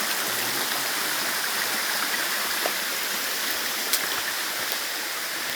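Steady rush of flowing river water, with a couple of faint ticks.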